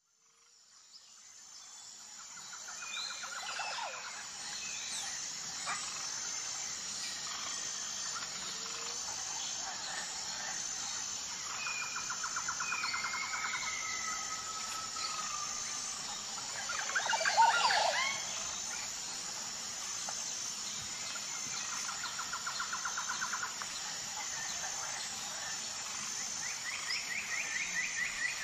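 Outdoor nature ambience of birdsong fading in: birds give fast trills a few times and some gliding whistles over a steady high-pitched drone, with the loudest burst of calls about two-thirds of the way through.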